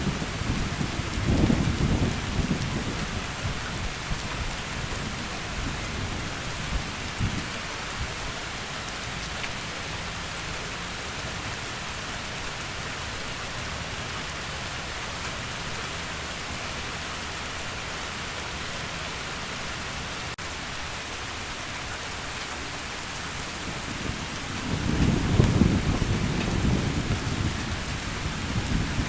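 Steady heavy rain hissing, with rolling thunder: a low rumble fading in the first few seconds and another swelling up near the end.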